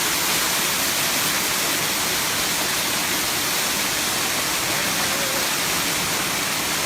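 Steady rush of falling water from the seventh tier of Erawan Waterfall.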